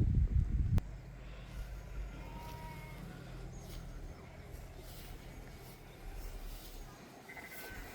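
Loud low rumbling bursts in the first second, then a steady low rumble with faint animal bleats, the clearest near the end.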